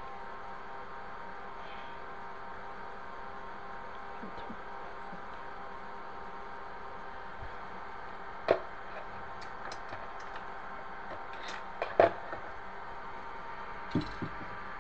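Steady electrical hum with a few sharp clicks and knocks of hard parts being handled: one about halfway through, a louder pair about three seconds later, and a lighter pair near the end.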